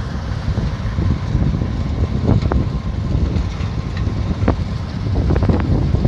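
Combine harvester running steadily, a low engine rumble with wind buffeting the microphone and a scatter of short knocks and rattles in the second half.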